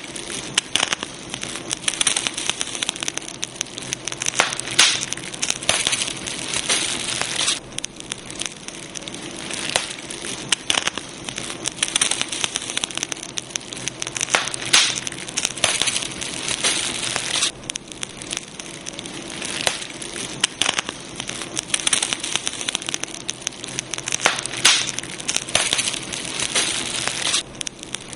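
Campfire crackling, with frequent sharp pops and snaps coming in bursts every second or two over a steady hiss.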